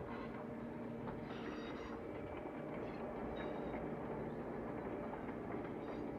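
Train running with the steady hum of a diesel locomotive, Southern Pacific's EMD GP9R, and a few brief faint high-pitched squeals.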